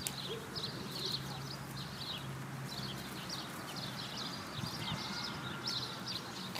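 Small birds chirping over and over in short, high, falling notes, with a faint low hum underneath.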